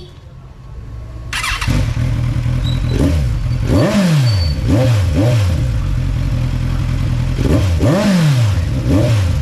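Kawasaki Z1000's inline-four engine idling, then blipped several times, each blip a quick rise and fall in revs.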